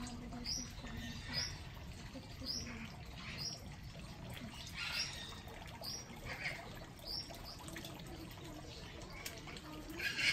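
Birds in the aviaries chirping repeatedly: short high calls, roughly one or two a second.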